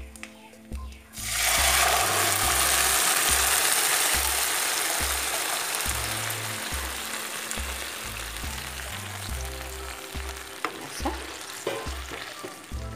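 Ground jute-leaf paste hitting hot oil in a kadai: a loud sizzle starts suddenly about a second in, then slowly dies down. Near the end a few scrapes of a slotted spatula stirring the curry.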